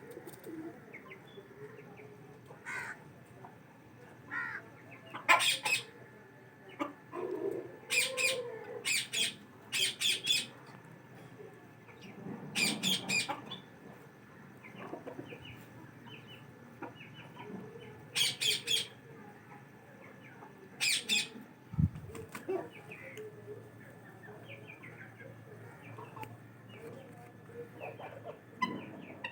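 Birds flapping their wings in short bursts every few seconds, with softer low calls between the flaps.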